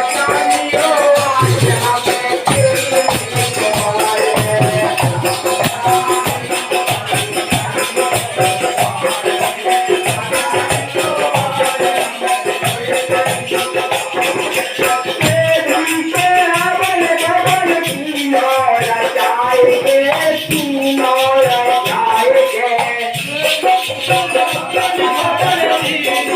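Hindi devotional kirtan music: a wavering sung or played melody over fast, steady rattling hand percussion.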